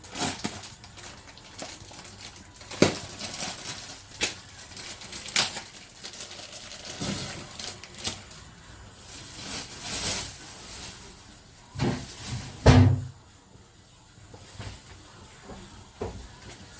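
Scattered knocks, clicks and clatter of kitchen items being handled, with a heavier thump near the end.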